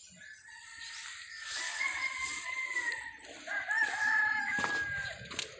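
Rooster crowing twice in long drawn-out crows, the second louder.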